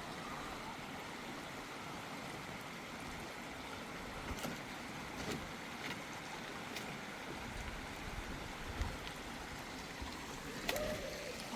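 Steady rushing water noise, with a few faint clicks scattered through it.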